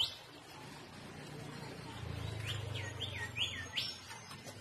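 A small bird chirping: one rising call at the start, then four quick falling chirps about two and a half to four seconds in, over a low steady hum.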